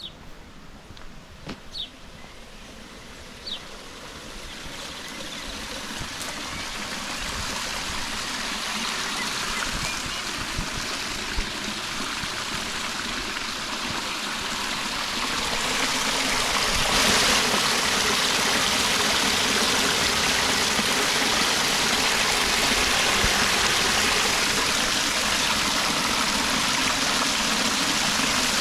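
Rushing water of a waterfall and its stream, a steady hiss that grows louder through the first half and then holds level. Two brief high chirps sound in the first few seconds.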